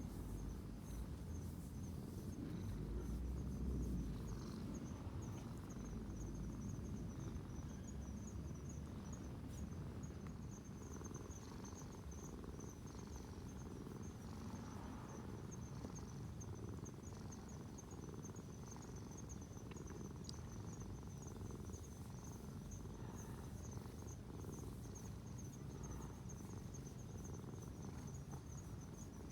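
An insect chirping in a steady, fast-pulsing high trill, over a low rumble.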